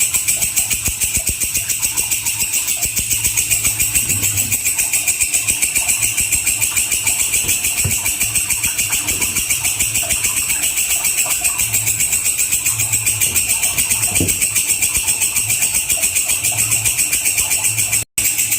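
Walang kecek insect calling nonstop, a shrill, rapid, evenly pulsed buzzing chirr, broken by a brief gap near the end.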